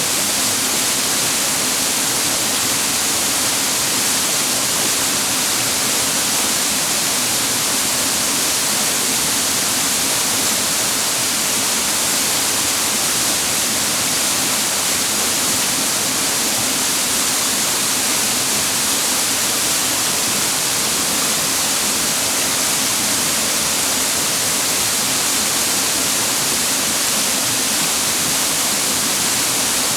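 Clear mountain water cascading over rocks, a steady, even rush with no change.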